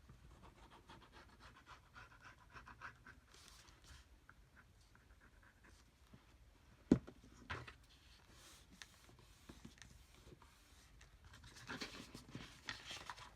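Faint rustling and rubbing of paper envelopes being handled and pressed shut, with a sharp tap on the work surface about seven seconds in and a lighter one just after.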